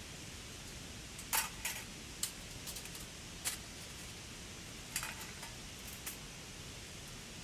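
About half a dozen sharp, light clicks and knocks of small hard objects being handled, spaced irregularly over a steady background hiss.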